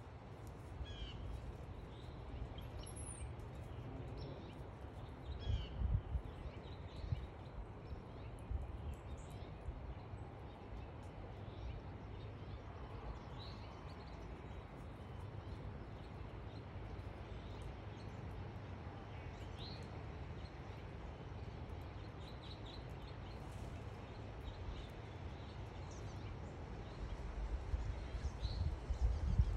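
Backyard songbirds giving short chirps and whistled calls here and there, over a steady low rumble that swells briefly twice.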